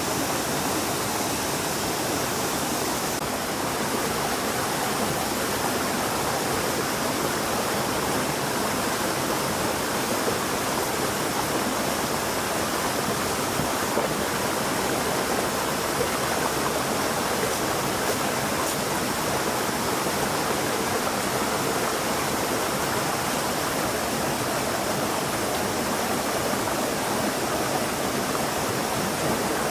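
Stream water flowing, a steady unbroken noise.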